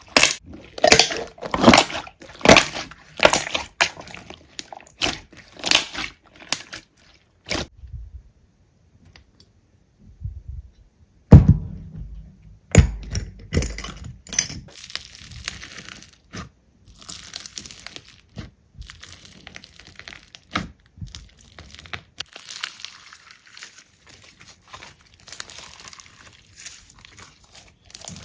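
Hands squishing and pressing a large slime, giving irregular crackling pops and crunches. After a short pause there is a low thud about a third of the way through, the loudest sound here, followed by a denser, steadier crackle.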